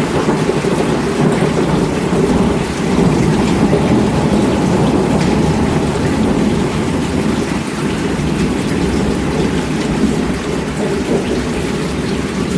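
Steady heavy rain falling, over a continuous low rumble, with scattered drop ticks and no single loud clap.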